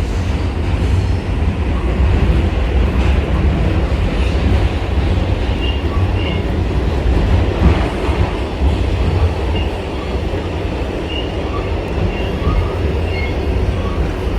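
Passenger train in motion heard from inside the car: a loud, steady low rumble of running gear, with scattered brief high squeaks.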